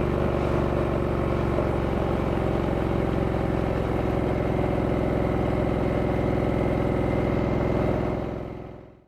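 2023 Harley-Davidson Sportster S's 1250 cc V-twin engine running at a steady pitch, with no revving, on stock exhaust. The sound fades out over about the last second.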